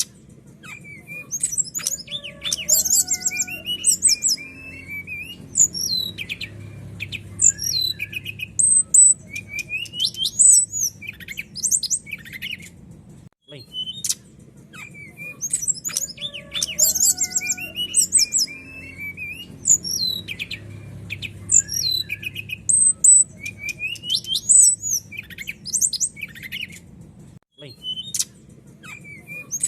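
Brown-chested jungle flycatcher (sikatan rimba dada coklat) singing: clear, high, rapid chirps, trills and sweeping whistled notes, the same song sequence repeating about every 14 seconds, over a faint low hum.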